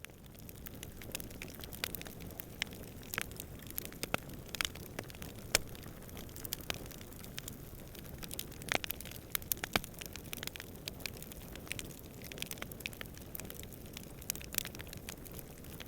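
Campfire burning with irregular sharp crackles and pops from the burning wood, over a steady low rushing background of fire and distant wind.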